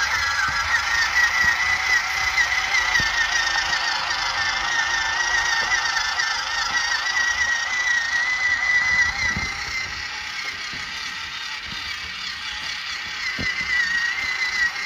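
WPL B24 RC truck's small 370 motor and two-speed gearbox whining steadily as it crawls, the pitch wavering slightly with the throttle, with a few light clicks. The whine eases and gets quieter about ten seconds in.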